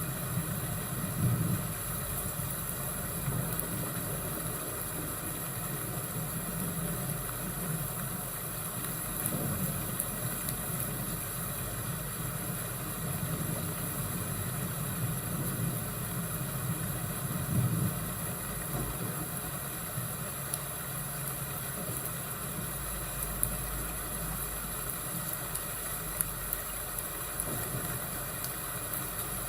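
Thunderstorm and fireplace ambience: a steady hiss of rain with low rumbles of thunder swelling about a second in and again past the middle, and a few faint crackles of the fire near the end.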